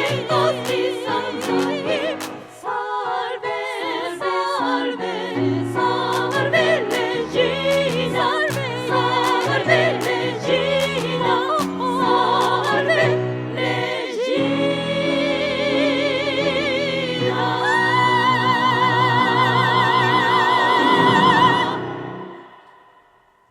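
Women's three-part choir, every part sung by one multitracked singer, with piano, singing the final bars of a gospel-style hymn arrangement. A brisk passage leads into a long held final chord with wide vibrato, which cuts off near the end and dies away.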